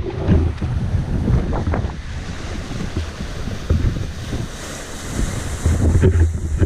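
Wind buffeting the microphone in gusts over the rush of waves, aboard a sailboat under way; the gusts are heaviest near the start and again near the end.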